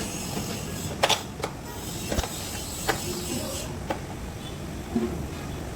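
Six separate sharp knocks spread over a few seconds, above a steady background rumble.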